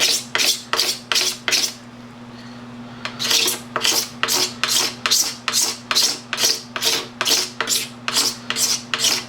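Hand scraping strokes with a blade across the surface of a plastic motocross gas tank, shaving off old graphics and faded plastic. The strokes come in a quick, even rhythm of about three a second, with a short break about two seconds in.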